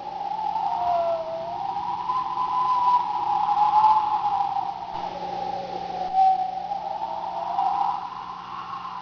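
Storm wind howling, a whistling tone that slowly rises and falls in pitch over a faint rushing hiss.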